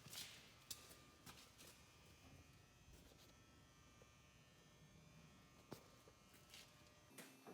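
Near silence: a faint steady electrical hum with a few soft clicks.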